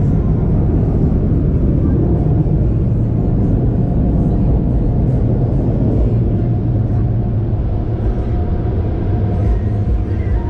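Steady low vehicle rumble, with music playing faintly.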